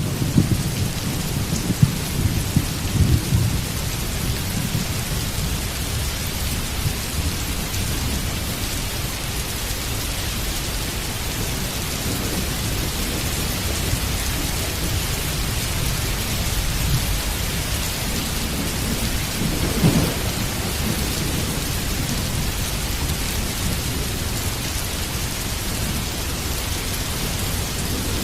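Heavy rain falling steadily, with low rolling thunder rumbles underneath, heavier in the first few seconds and swelling again briefly about twenty seconds in.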